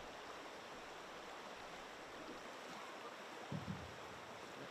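Faint, steady rush of river water flowing, with a brief faint low sound about three and a half seconds in.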